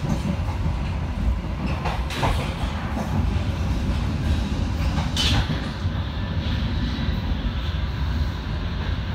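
Passenger train running along the track, heard from inside the coach: a steady, loud low rumble of wheels on the rails, with brief higher-pitched noises about two and five seconds in.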